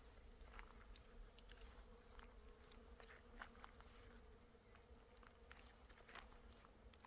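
Faint steady buzzing of bees, with soft footsteps and small crackles scattered through.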